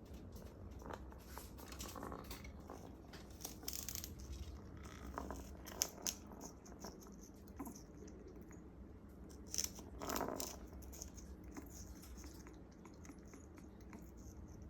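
African grey parrot's beak biting and tearing into fibrous sugarcane: irregular small crunches and cracks, with a couple of sharper snaps about six and nine and a half seconds in.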